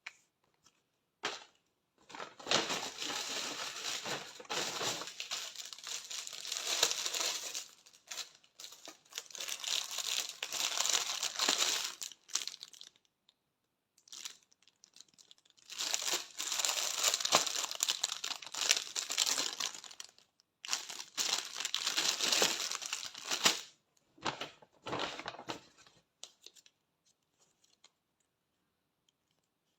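Gift packaging being crinkled and torn open by hand: four long stretches of rustling and tearing, with short scraps of noise between them.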